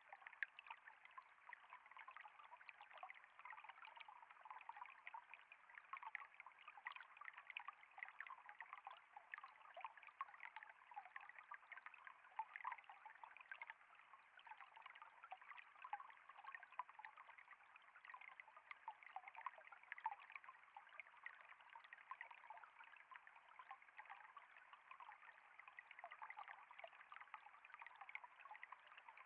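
Flowing water trickling steadily and faintly, a thin, bright patter of many small splashes with no deep rush.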